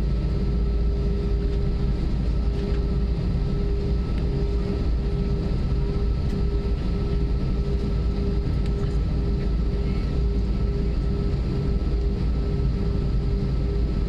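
Airbus A320 cabin noise: the jet engines running steadily, heard inside the cabin as a low rumble with a steady hum.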